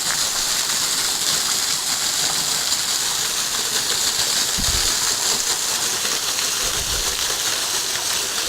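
Thin waterfall falling onto rocks, a steady hissing rush of water heard close up from behind the fall, with a couple of low thumps about halfway through.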